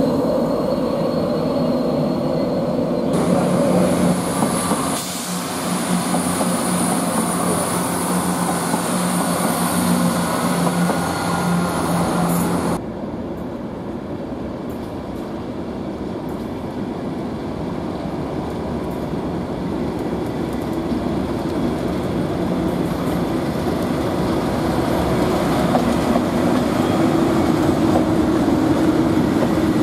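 Red-and-white LNER express train moving along the platform, with a steady high whine over its running noise. After an abrupt cut about halfway through, a yellow Network Rail Class 97/3 diesel locomotive, a rebuilt Class 37 with an English Electric V12 engine, running past, growing slightly louder near the end.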